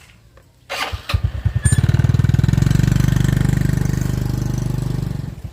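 A small engine starts about a second in, runs at raised revs for a few seconds, then drops back to a lower idle near the end.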